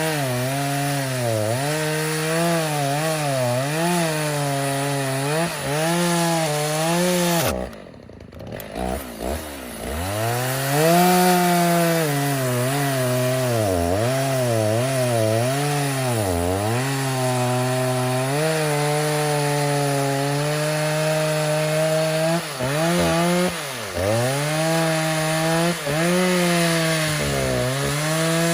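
Stihl 029 two-stroke chainsaw, rebuilt with a 45mm cylinder, running hard while cutting wood; the engine pitch dips and recovers again and again as the chain loads up in the cut. About eight seconds in it drops to a low idle for a moment, then revs back up and cuts on.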